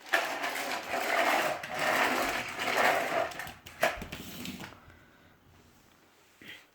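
A 750 W Samsung corded vacuum cleaner starts suddenly and runs for about three and a half seconds, then falls away, with a sharp knock just after.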